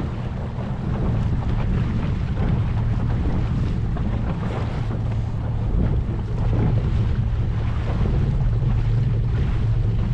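A boat's motor running steadily at trolling speed, a low hum under wind buffeting the microphone and the wash of water.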